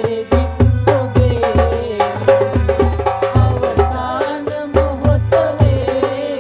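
Band playing a Sinhala calypso-style song: bass and percussion keep a steady beat under a melody line.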